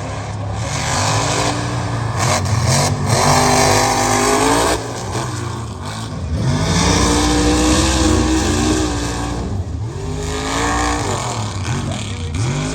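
Mega truck's high-horsepower engine revving hard in three climbing runs, the pitch rising each time and dropping off sharply between them, over a steady low rumble.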